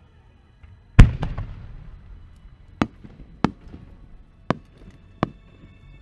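A 10-inch aerial firework shell bursting overhead: one very loud bang about a second in, trailing off in a long crackle and echo, then four more sharp bangs spaced roughly a second apart.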